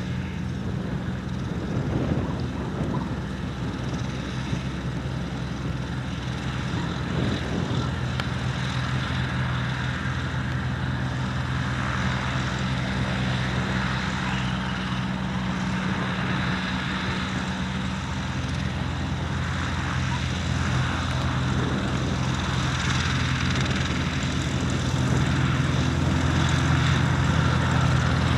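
Single-engine light aircraft's piston engine and propeller running steadily at low power, getting somewhat louder near the end.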